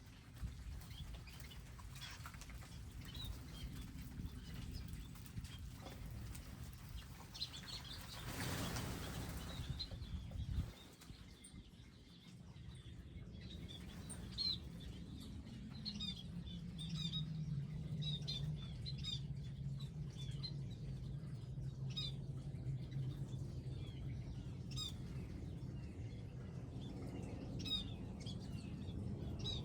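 Small wild birds chirping with short, high calls around garden feeders, the chirps coming thicker in the second half. A rush of noise comes about 8 seconds in, and a low steady hum sets in about halfway.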